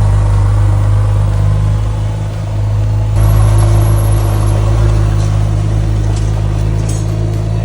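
Porsche 911 GT2 RS's twin-turbo flat-six idling through its exhaust, a steady low note with no revving.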